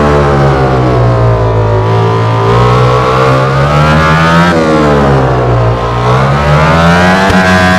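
A MotoGP racing motorcycle's four-cylinder engine at high revs, its pitch sweeping down and up as it works through the gears. The revs sag for the first two seconds, climb, drop sharply about halfway through, then climb again towards the end.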